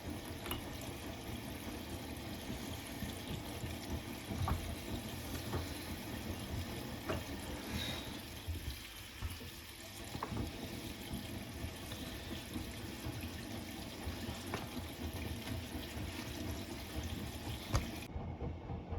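Hotpoint WMFUG942 washing machine running its Autoclean cycle: water sloshing in the tumbling drum during the heating stage, with a few sharp clicks along the way.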